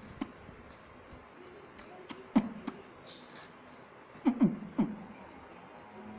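Parrot making short, low popping clicks: one about two seconds in, then a quick run of three a little past four seconds.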